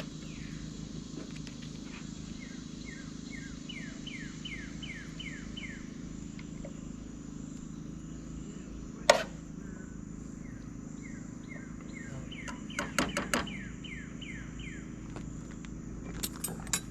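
A bird singing twice: a series of whistled notes, each sliding down in pitch, coming faster and closer together. Under it runs a steady high insect drone and a low hum. One sharp knock comes about nine seconds in, and a quick cluster of knocks follows a few seconds later.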